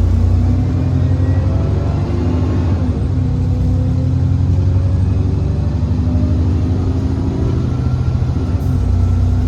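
Alexander Dennis Enviro400 (E40D) double-decker diesel bus running under way: a steady engine drone whose pitch climbs, drops back about five to six seconds in, then climbs again.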